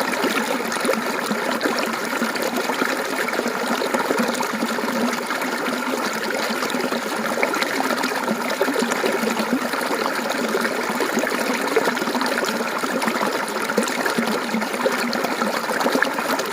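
Mountain stream water flowing and trickling steadily, with a continuous babbling splash.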